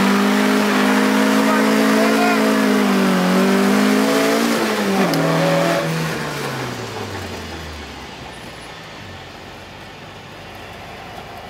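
Drift car's engine held at high revs, its pitch wavering up and down. About five seconds in the revs drop, and the note slides down in pitch and fades over the next few seconds to a faint low rumble.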